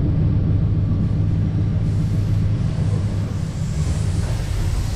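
Regional express train running, heard from inside the passenger carriage: a steady low rumble and hum, with a hiss that grows louder near the end.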